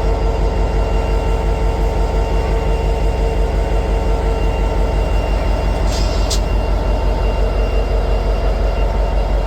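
A train running: a steady, loud mechanical sound with a fast, even pulse and a constant hum, with two short clicks about six seconds in.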